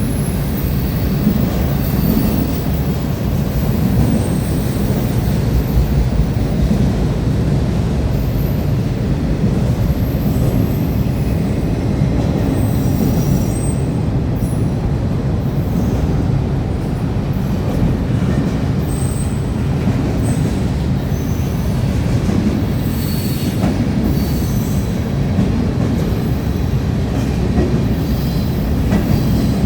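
Freight train cars rolling steadily past on the rails, with a continuous low rumble and short, scattered high-pitched wheel squeals.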